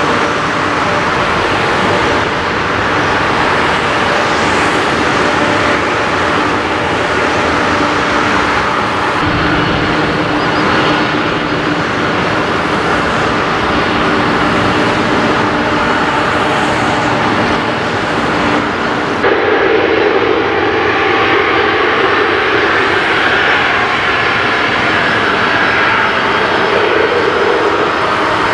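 Boeing 747-400's Pratt & Whitney PW4056 turbofans running at low taxi power: a steady jet roar with whining tones. The sound changes abruptly about two-thirds of the way through.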